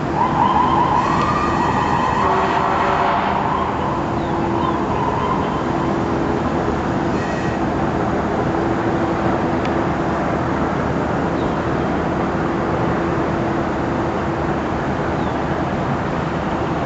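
High-performance powerboat engines running steadily, mixed with wind and water rush. For the first three seconds or so a wavering, siren-like tone sounds over them.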